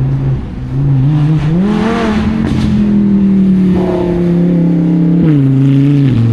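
A car engine revving: it runs at a steady lower pitch, climbs to higher revs about a second and a half in and holds there for several seconds, then drops back down in two steps near the end.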